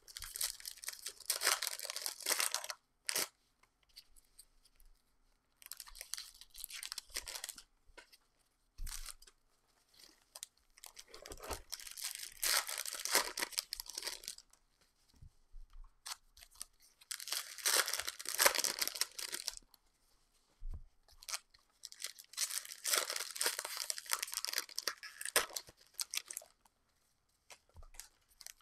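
Trading-card pack wrappers being torn open and crinkled, in repeated bursts of a few seconds each with short pauses between.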